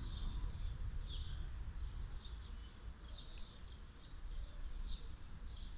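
Small birds chirping, short high calls repeating about once a second, over a steady low background rumble.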